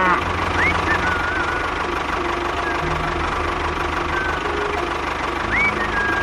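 Small engine running steadily with a fast, even low pulse, with a few short whistling chirps over it.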